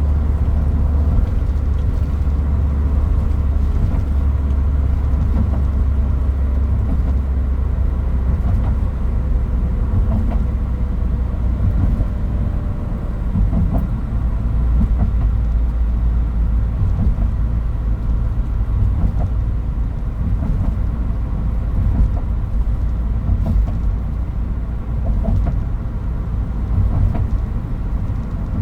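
Toyota Hilux Mighty-X pickup on the move: a steady, deep engine drone with a few small knocks and rattles, heard from inside the cab.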